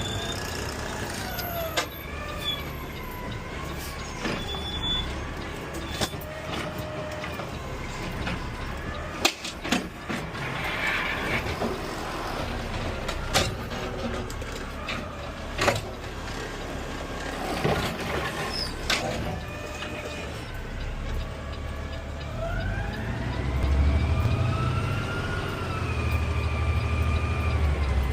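Peterbilt 520 CNG automated side-loader garbage truck at work, heard from the cab: the engine runs under a whine that glides up and down in pitch. Several sharp clanks come in the middle, typical of the fast side arm slamming a cart against the hopper, and near the end the engine grows louder with a rising whine as the truck pulls away.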